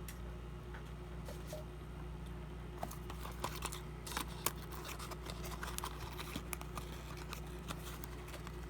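Faint clicks and light rustles of a small cardboard toy-car box and its packaging being handled, starting about three seconds in, over a steady low hum.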